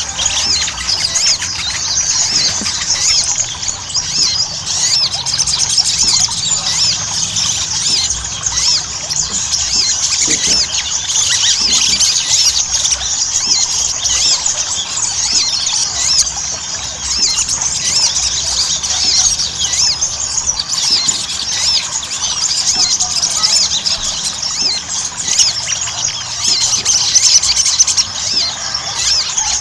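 Sogon (sogok ontong) sunbird singing in full 'gacor' song: a dense, unbroken stream of quick, high-pitched chirps and trills. This is the kind of lure song played to coax caged sogon into singing.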